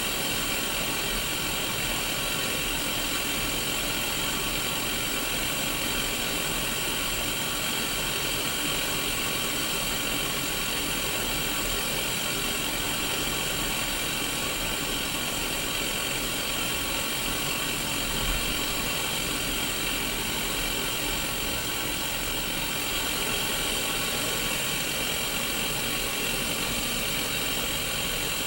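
Static from a Sony Mega Watchman mini black-and-white CRT TV on an empty channel: a steady, even hiss with a faint low hum under it.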